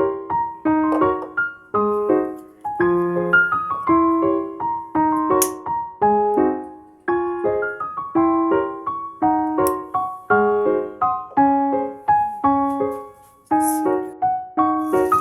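Background music: solo piano playing a gentle melody over chords, one struck note after another with each note fading. A couple of faint clicks and a brief hiss near the end sit under the music.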